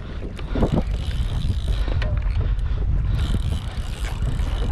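Wind buffeting the microphone on a kayak out at sea, a steady low rumble with a hiss of wind and water over it. A brief vocal sound about two-thirds of a second in.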